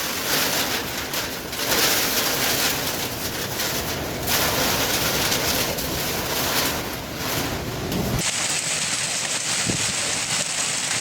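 Strong storm wind gusting and buffeting the microphone, with a loud rushing hiss that swells and eases. About eight seconds in the low rumble cuts out abruptly, leaving a steadier high hiss.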